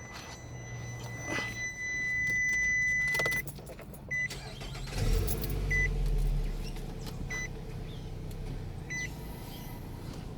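A car's warning chime sounds as one steady tone for about two seconds, then as short beeps about every second and a half. About five seconds in, the engine cranks and starts, then settles into a steady idle under the beeps.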